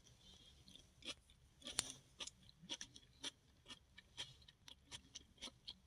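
A person chewing something crunchy close to the microphone, with short, irregular crunches a few times a second.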